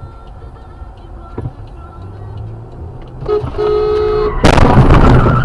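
Car road noise, then a car horn blaring for about a second, then a sudden very loud crash of a collision near the end.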